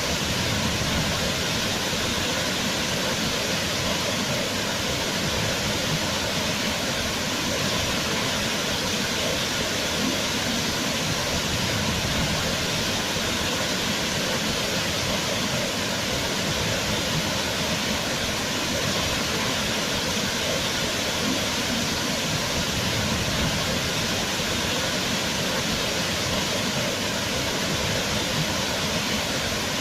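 Waterfall: a steady, dense rush of falling water with no let-up.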